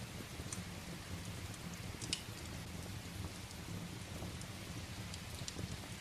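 Steady rain with a low, even rumble underneath, and sharp crackles and pops of burning firewood now and then, the loudest about two seconds in.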